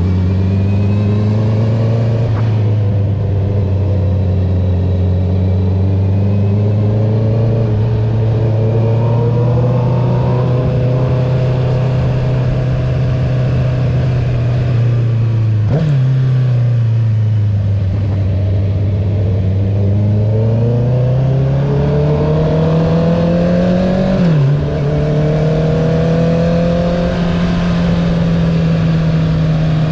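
Honda CB650R inline-four through an Akrapovic titanium full exhaust system with the dB killer removed, running at steady speed under way. About halfway the pitch changes suddenly, sinks, then climbs again, and near the end it drops sharply at a gear change before settling into steady running.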